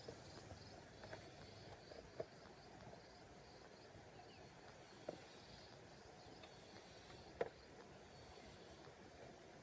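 Near silence: faint insect chirping, a steady run of short high pulses, with a few soft clicks about two, five and seven seconds in.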